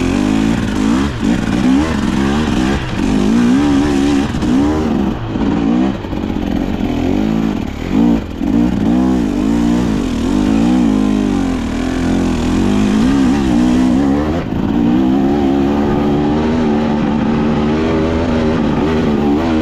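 KTM 250XC-W two-stroke dirt bike engine running under constant throttle changes, its pitch rising and falling every second or two as it revs up and drops back.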